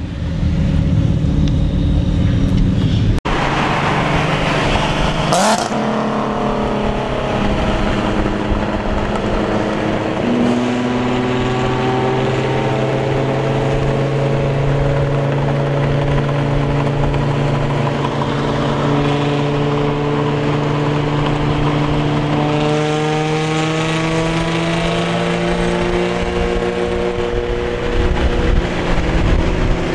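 Car engine running under load, its pitch climbing slowly and steadily for many seconds as the car accelerates.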